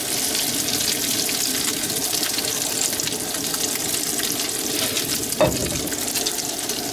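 Salmon patties frying in oil in a cast-iron skillet: a steady crackling sizzle, with a single short knock about five and a half seconds in.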